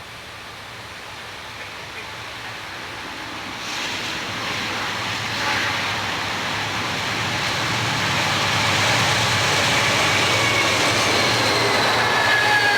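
A freight train approaching and passing close by, its rumble and wheel noise growing steadily louder from about four seconds in, with a faint high wheel squeal near the end.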